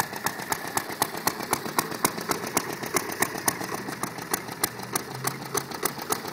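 Vintage Briggs & Stratton FI single-cylinder four-stroke engine on a 1929 Moto-Mower reel mower, running steadily with sharp, evenly spaced firing pops about five a second.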